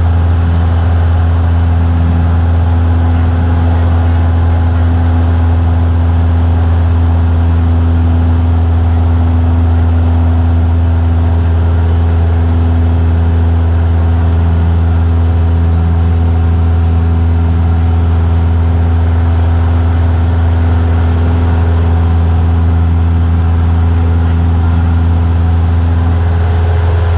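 Cessna 172's piston engine and propeller droning steadily in flight, a loud, even low hum that holds the same pitch throughout.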